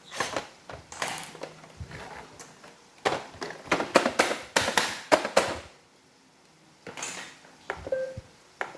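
Plastic clicks and knocks from handling the reassembled iRobot Roomba robot vacuum, with a pause in the middle and a short electronic beep near the end.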